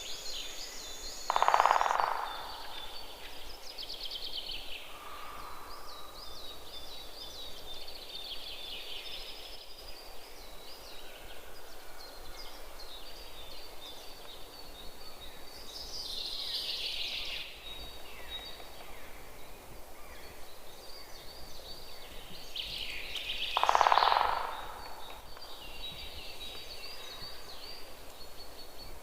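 Wild birds chirping and trilling in a continuous chorus of short high calls. Twice, a single louder and lower call cuts through: once about a second and a half in, and again near the end.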